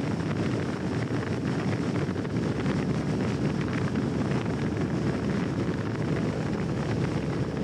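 A truck running steadily, with wind noise on the microphone.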